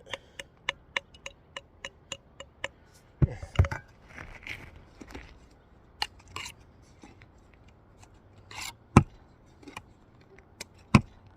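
A brick being trimmed with a masonry tool: a quick run of sharp chipping taps, about four a second, for the first couple of seconds, then a few heavier single knocks and short scrapes.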